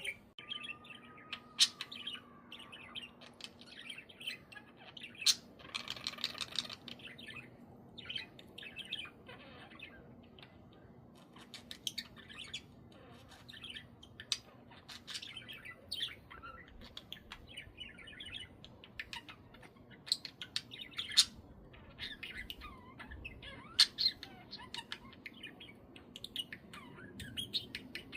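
Budgerigars chirping and chattering, with short sharp squawks scattered throughout, a few of them much louder.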